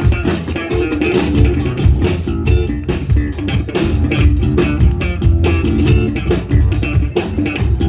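Live band playing an instrumental passage, with an electric bass guitar featured over a steady drum-kit beat.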